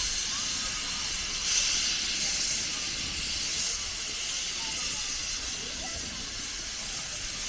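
Steam locomotive letting off steam: a steady hiss that swells slightly and eases, with faint voices underneath.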